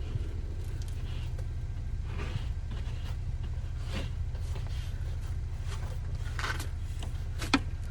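Steady low rumble with a few scattered scrapes and crunches in snow, and one sharp click near the end.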